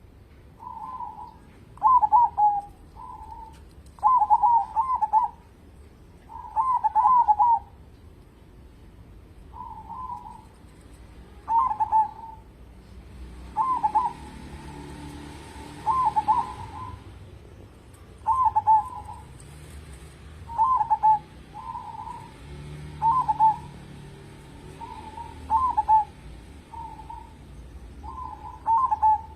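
Zebra dove cooing: short rippling coo phrases near 1 kHz, repeated every two seconds or so.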